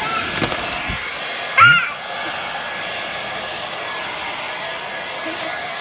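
Handheld hair dryer blowing with a steady whoosh. About one and a half seconds in comes one brief, loud, high-pitched squeal that bends in pitch.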